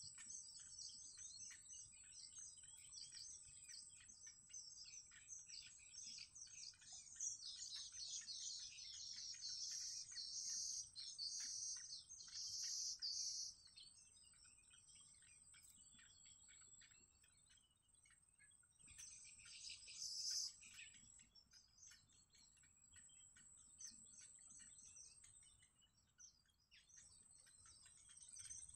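Faint high-pitched bird chirping over a steady high whine. It builds into a dense run of chirps about a quarter of the way in and comes back as a shorter burst about two-thirds of the way in.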